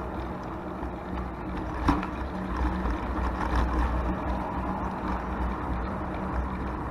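Steady rumble of traffic on a four-lane road mixed with wind noise on a microphone riding along on a bicycle, with a short knock about two seconds in.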